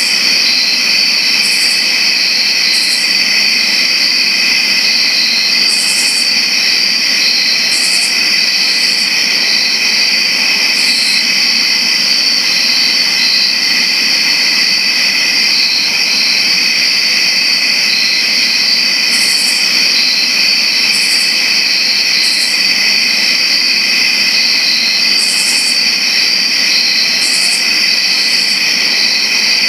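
Chorus of many crickets chirping in a dense, continuous trill. Short, higher chirps stand out from the chorus every second or two.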